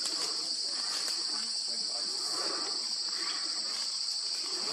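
Steady, high-pitched chorus of insects, crickets or cicadas, trilling without a break.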